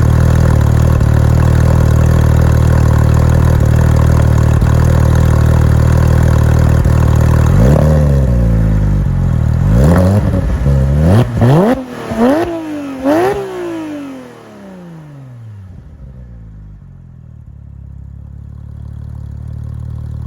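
2010 Porsche 911 GT3's 3.8-litre flat-six, breathing through BBI side-pipe exhaust, idling steadily and then revved in a quick series of about five or six sharp throttle blips. After the last blip the revs fall away and the sound drops off.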